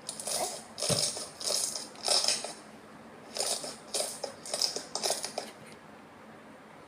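Slime being squeezed and worked by hand, making about nine short crackly, squelching bursts over five and a half seconds, with a low thump about a second in.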